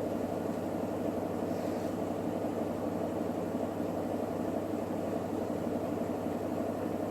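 Electrolux WD41A84160 washer-dryer spinning its drum at steady high speed in the final spin, a constant whirring hum with no change in pitch or level.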